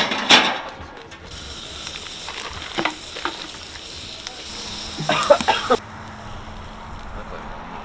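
Food sizzling in a frying pan, with clatters of a utensil against the pan. The sizzle cuts off abruptly a little over halfway through.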